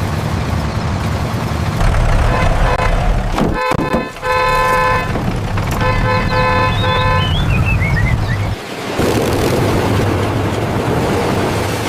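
Tractor engine running steadily, with its horn tooted twice in the middle, followed by a short falling chirp.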